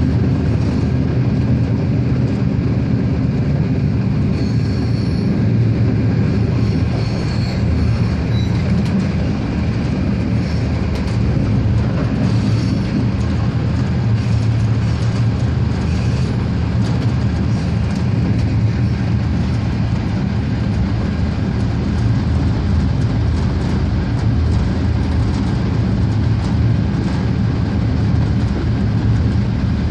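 Regiosprinter diesel railcar running steadily along the line: a continuous low drone of engine and wheels on the rails. Faint high-pitched wheel squeals come in about four to nine seconds in.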